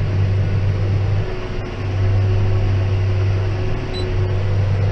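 John Deere 6190R tractor running steadily as it drives a Claas 3300 baler, a constant low drone with a faint steady whine over it.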